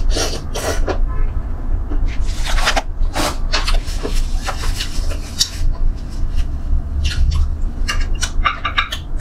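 Close-up eating sounds: chewing and mouth noises from gnawing braised chicken feet, in short irregular crackly bursts over a steady low hum.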